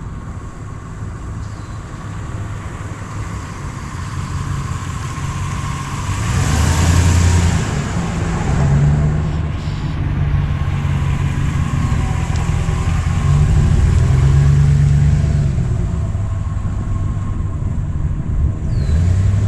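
A pickup's 5.7-litre HEMI V8 running and revved up twice, about six seconds in and again around thirteen seconds, its pitch climbing and falling back each time.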